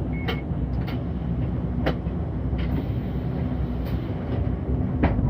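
City bus running: a steady low engine and road rumble heard from inside, with scattered sharp clicks and rattles.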